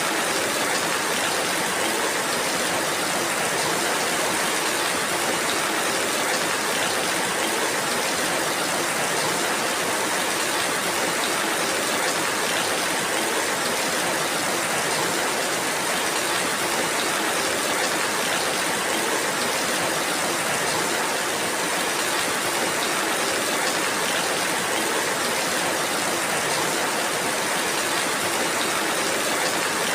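Steady rainfall, an even hiss of rain with no breaks or single drops standing out.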